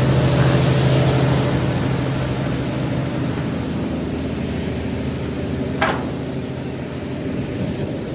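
Engine of the pushboat driving a river ferry, running with a steady low drone. A single short, sharp sound cuts in about six seconds in.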